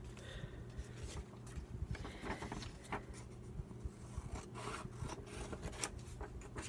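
Paper and craft materials being handled and shuffled on a table: irregular rustling and light rubbing with small clicks, over a faint steady low hum.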